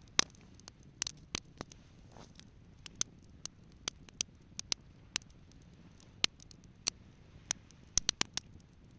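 Wood campfire crackling: irregular sharp pops and snaps, one or two a second, with a quick run of several pops near the end.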